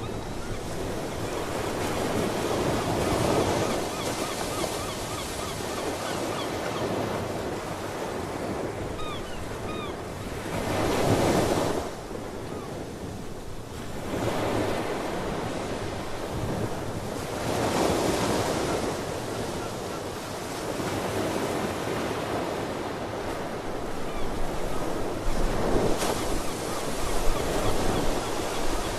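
Ocean surf: waves breaking and washing ashore in repeated swells every several seconds, with wind on the microphone. Faint, short calls of seabirds are heard over the surf in the first part.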